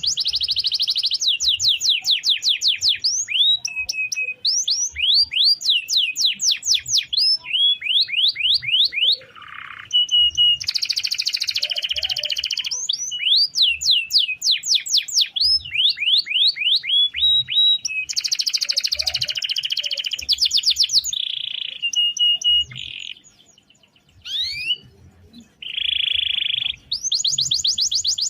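Domestic canary singing a long rolling song: trains of rapidly repeated high sweeping notes that change speed and pitch every few seconds, alternating with dense buzzy rolls. There is a brief break about three-quarters of the way through before the song resumes.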